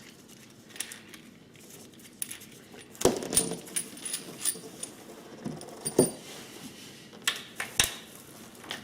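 Metal parts of a pit bike's handlebar clamp being handled and fitted: scattered clinks and knocks of steel bars, clamp halves and bolts, the loudest about three seconds in and again about six seconds in.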